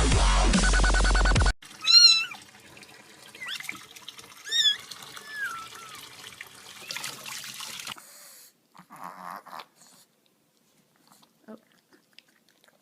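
Electronic dubstep music that cuts off about a second and a half in. A cat then meows: two loud meows about two and a half seconds apart, with a few quieter ones between and after, over a faint background hiss. The last few seconds hold only a few faint sounds.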